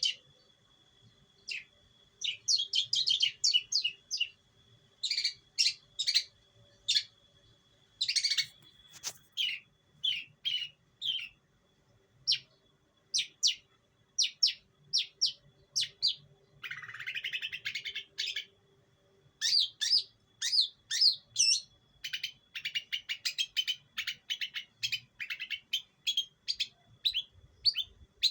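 Long-tailed shrike (pentet) singing: quick runs of short, sharp chirps and trills in bursts with brief pauses between them, and one harsh rasping call about seventeen seconds in.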